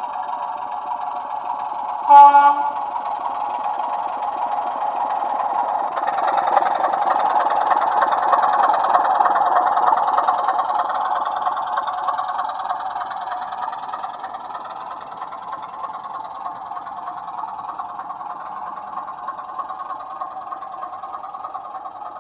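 Sound-fitted 00 gauge model diesel locomotive running, with one short horn blast about two seconds in. The engine sound grows louder from about six seconds in, then fades away.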